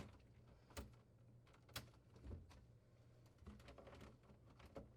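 Faint, scattered plastic clicks and handling noise, a few single clicks about a second apart and then a short rustle: a refrigerator drawer slide's plastic access cover being unclipped and light switch wire connectors being unplugged.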